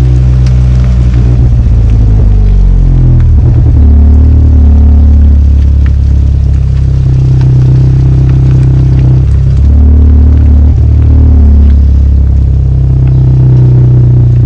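Chevrolet Cruze's 1.4-litre turbocharged four-cylinder running through a Flowmaster axle-back exhaust: a loud, deep exhaust note that drops in pitch about three seconds in, then holds fairly steady with another brief change in engine speed near the ten-second mark.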